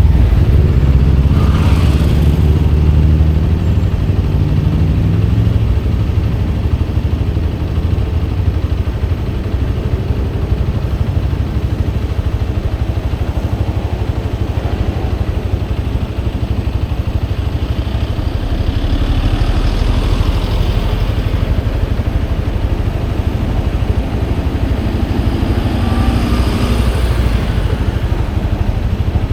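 Motorcycle engine running steadily during a ride, its pitch falling in the first few seconds as it eases off.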